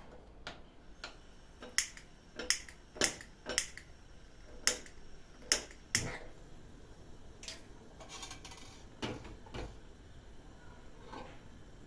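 Household items being handled and set down: a string of sharp, light clicks and knocks, about seven in quick succession in the first half, then a brief rustle and a few fainter knocks.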